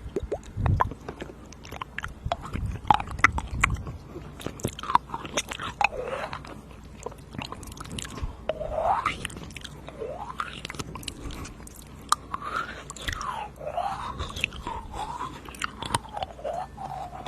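Close-miked ASMR mouth sounds: quick wet clicks and smacks at first, then drawn-out sounds that slide up and down in pitch, in the style of 'eating you' mouth sounds.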